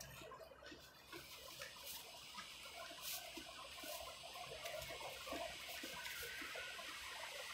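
Faint chewing and small mouth clicks of a person eating, scattered irregularly over a steady outdoor hiss.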